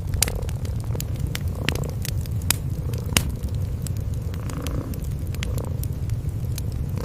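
Cats purring in a steady low rumble, with a wood fire crackling over it in irregular sharp pops.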